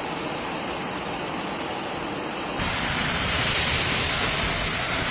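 Heavy rain in a thunderstorm, a steady rushing hiss that grows louder and brighter about two and a half seconds in.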